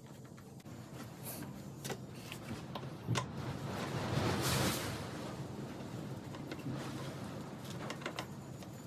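Scattered clicks and clinks of hand tools handling metal parts, with a short rushing hiss about four seconds in, over a steady low hum.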